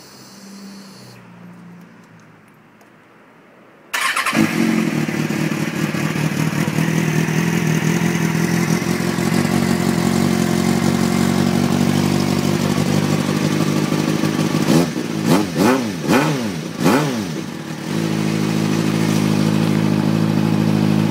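2006 Kawasaki ZX-6R 636's inline-four engine through a Micron aftermarket exhaust that has a slight leak. After about four quiet seconds it starts suddenly and idles steadily, then gets about four quick light revs that rise and fall before settling back to idle.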